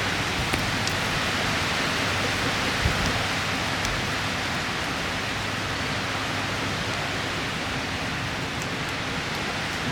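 Heavy rain in strong wind: a steady, loud rushing noise with scattered drop ticks and one low thump about three seconds in.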